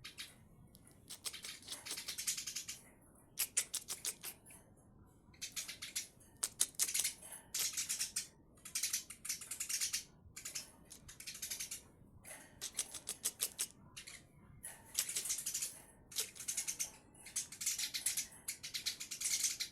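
Male and female Eurasian tree sparrows chattering: rapid, high-pitched chirps in bursts of about a second, repeated with short pauses between them.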